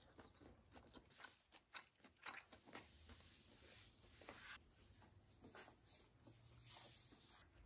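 Faint, irregular soft clicks and mouth sounds of someone chewing a mouthful of grilled steak.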